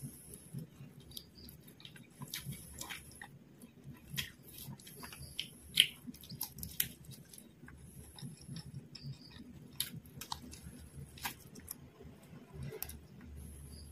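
Close-miked eating of spicy fried quail biriyani by hand: wet chewing, lip smacks and irregular sharp mouth clicks, one much louder click a little before halfway.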